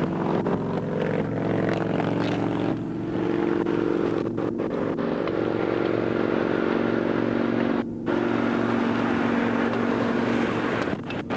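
A vehicle engine running at a steady speed with road noise. The engine's pitch shifts slightly a few times, and the sound drops out briefly about eight seconds in.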